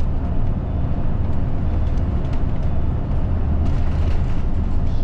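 Inside a route bus: steady low engine rumble and cabin noise.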